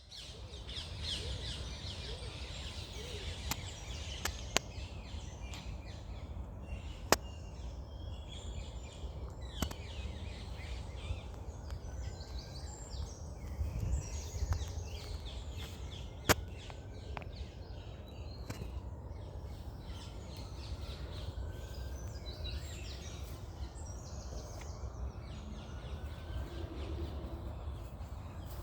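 Many birds singing and chirping together, over a steady low rumble, with a few sharp clicks, the loudest about seven and sixteen seconds in.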